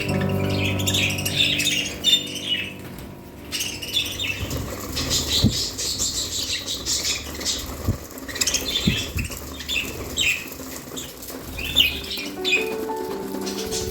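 A flock of pet budgerigars chattering with many quick chirps, and wings flapping now and then. Background music fades out at the start and comes back near the end.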